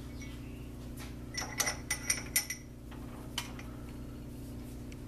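A quick run of light metallic clinks, about six in just over a second, as metal tooling is handled at a lathe, over a steady low hum.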